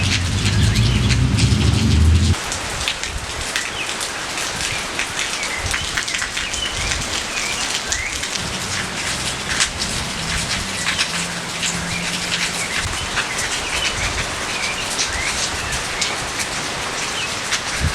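Steady rain falling on surfaces, with many close drops ticking and pattering. A deep low rumble runs for the first two seconds and cuts off abruptly. A bird chirps faintly now and then.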